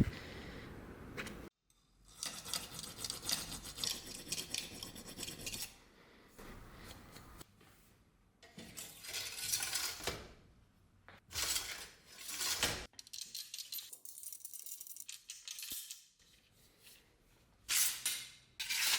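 Hand work on metal: irregular short bursts of scraping and rubbing, with light clinks of small metal parts. The sound breaks off abruptly about a second and a half in, and again in a few short gaps.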